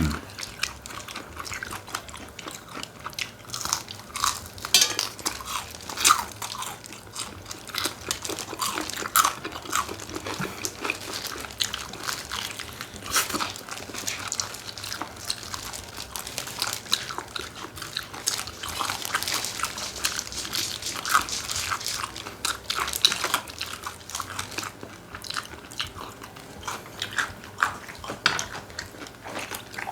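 Close-miked chewing and crunching of spicy bone-in chicken feet, with many small irregular crunches and clicks.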